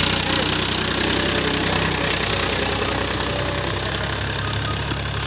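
Powertrac Euro 50 tractor's diesel engine running steadily, a deep even hum that eases off slightly toward the end.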